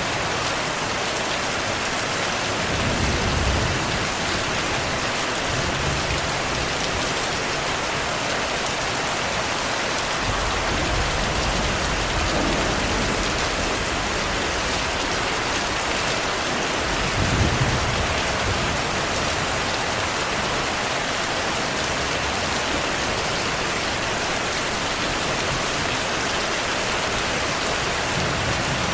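Steady heavy rain falling, with low rumbles of distant thunder about three seconds in and again a little past halfway.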